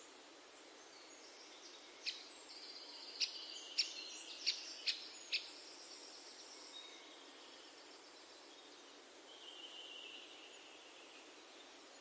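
Songbirds singing: a run of sharp, high notes and trills about two seconds in that lasts a few seconds, then a softer short phrase near the ten-second mark, over a faint steady hiss.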